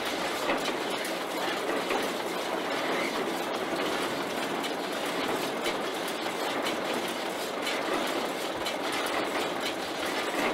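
Early German Welger baler running, a steady mechanical clatter with many quick knocks and clicks.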